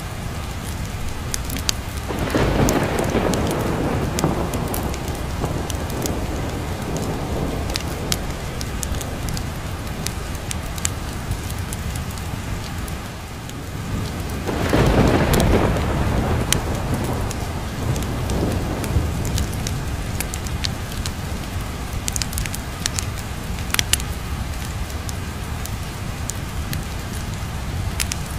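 Steady heavy rain with two rolls of thunder: one begins about two seconds in, and a louder one comes about halfway through, each fading away over several seconds. Scattered sharp ticks and crackles run through the rain.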